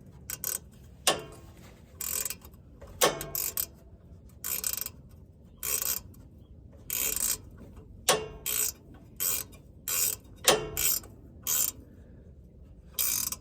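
Ratchet wrench tightening bolts: short bursts of ratchet clicking about once a second, one burst on each back-swing of the handle.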